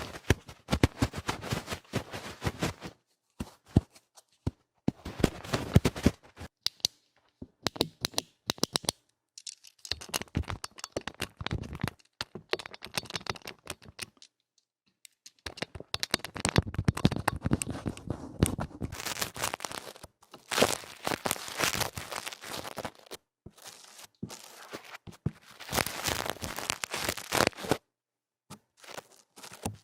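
ASMR ear cleaning done roughly at a microphone's ear: loud scratching and crackling rubs, with many small clicks. They come in spells of one to four seconds, broken by short silent pauses.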